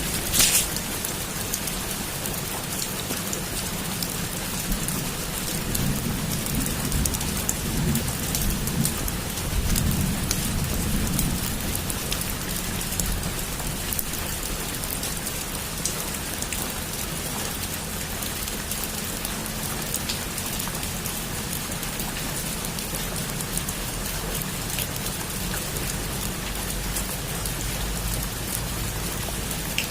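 Heavy rain falling steadily, with a sharp crack of thunder right at the start and a low rumble of thunder about six to twelve seconds in.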